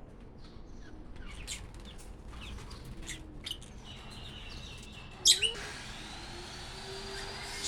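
Small pet parrots chirping in a rapid series of short, high calls. About five seconds in comes one loud sharp sound, followed by a steady hiss.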